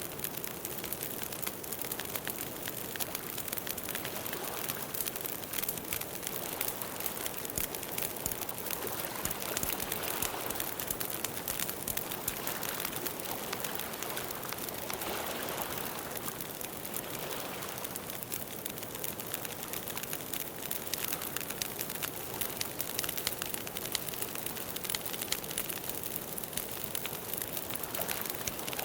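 Campfire crackling steadily: a dense run of small sharp pops and snaps over a soft hiss of burning wood.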